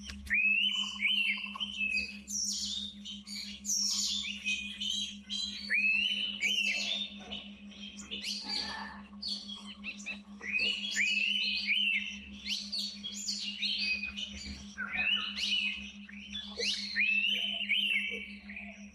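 Several birds calling together: runs of short, clear whistled notes that rise and then level off, overlapping with higher, busier chirps. A steady low hum runs underneath.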